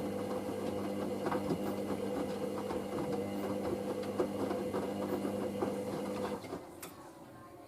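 Hoover SIX AAA160 washing machine tumbling a wash load: its drum motor runs with a steady hum and a patter of small clicks from the turning drum. The sound cuts off about six and a half seconds in as the drum stops.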